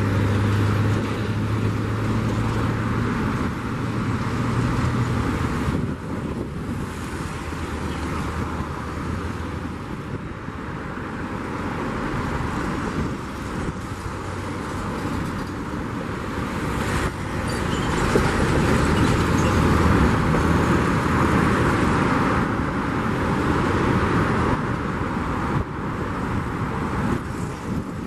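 Aircraft engine noise: a steady rushing that swells and eases, with a low hum in the first few seconds and several abrupt changes where the sound jumps from one take to another.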